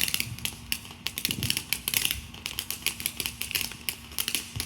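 Firework crackling: a dense, irregular stream of rapid sharp crackles.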